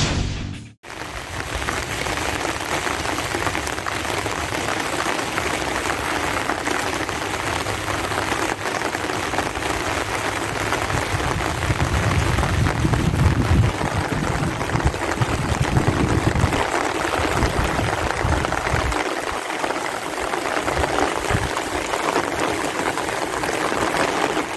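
Heavy rain falling steadily, a dense, even hiss. Irregular low rumbling comes and goes around the middle.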